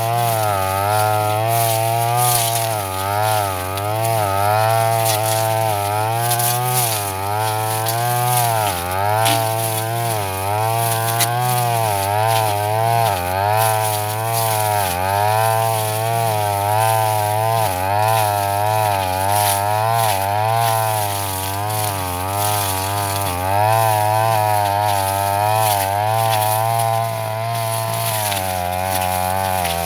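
Brush cutter engine running at high speed while cutting tough grass; its pitch keeps dipping and recovering as the blade takes the load. Near the end the revs settle lower.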